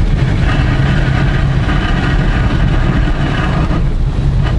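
Car driving on a flooded road in heavy rain, heard from inside the cabin: a steady low rumble of engine and road, with a hiss of water spray from nearly treadless tyres that swells about half a second in and cuts off sharply near the end.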